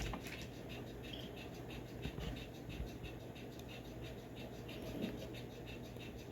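Faint, irregular scratchy clicking and rustling over a steady low hum, from a played-back recording, with a zipping sound. The recording is presented as creatures moving beneath the Euphrates River.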